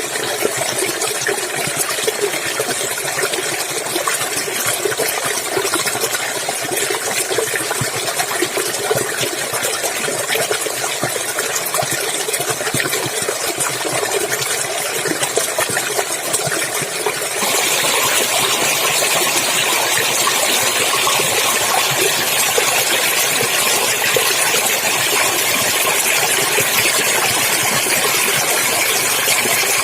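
Clear stream water running and splashing in a steady rush. A little over halfway through, the sound turns brighter and slightly louder, then stays that way.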